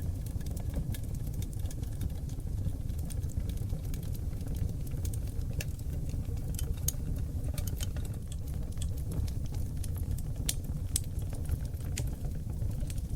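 Wood fire of seasoned oak logs burning in a fireplace: irregular sharp crackles and pops over a steady low rumble.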